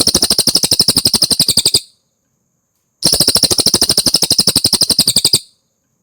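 Cililin songbird giving two fast, rattling trills of evenly repeated notes, each lasting about two and a half seconds, with a pause of about a second between them.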